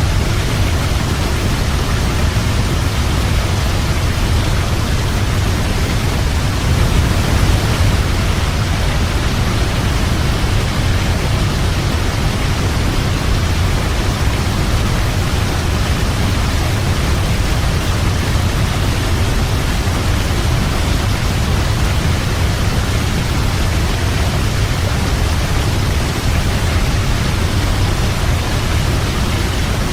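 Waterfall: a steady, unbroken rush of falling water, with a strong low rumble under the hiss.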